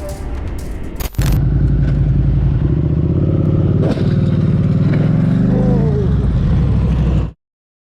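Motorcycle engine running at a steady speed, its note held even for about six seconds; it cuts off abruptly near the end. Before it, for about the first second, a noisier passage with a few sharp clicks.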